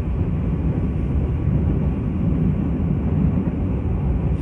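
Steady low rumble of a moving passenger train heard from inside the coach.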